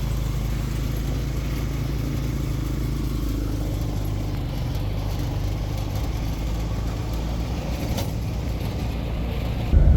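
Motor vehicle engine running steadily with a low, even hum, growing louder near the end.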